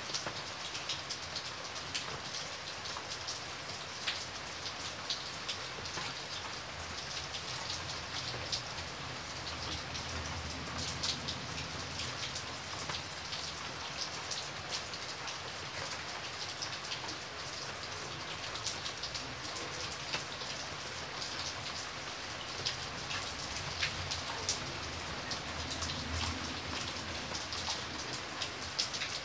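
Steady rain, with many close drops striking a hard surface as sharp ticks over a constant hiss.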